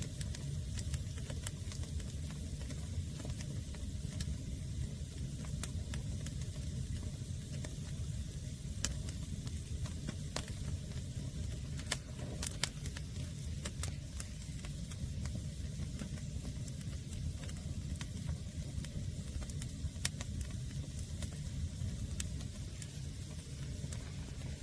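Fire of green, unseasoned firewood burning: scattered sharp crackles and pops over a steady low rumble.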